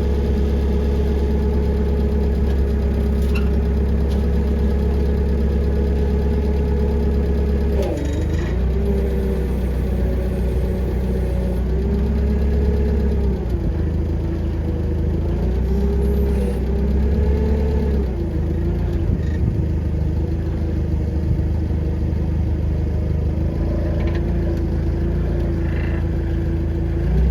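An engine running steadily, its pitch sagging briefly and recovering about eight seconds in and several more times after, as if under changing load.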